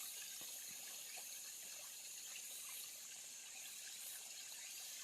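Mountain valley stream trickling and burbling steadily, a faint, even water sound.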